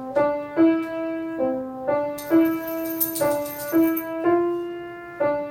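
Piano played solo: a simple melody of single held notes, a new note struck about every half second.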